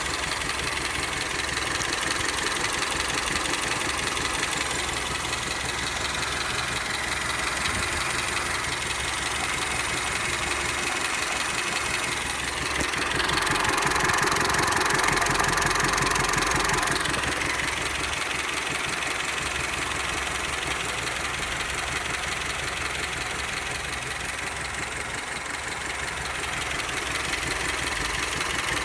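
Honda Civic sedan engine idling with a metallic knocking from inside the engine, the fault being shown. The sound grows louder for a few seconds midway, then settles back.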